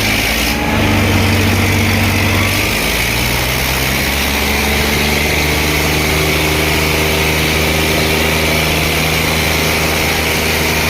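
Diesel tractor engines running steadily under load in a tractor pull, the engine note shifting pitch a few times in the first five seconds and then holding steady.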